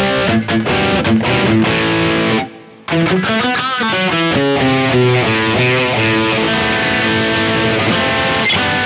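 Electric guitar played through a digital amp-modeling unit, strumming chords and then a quicker picked riff after a short break about two and a half seconds in.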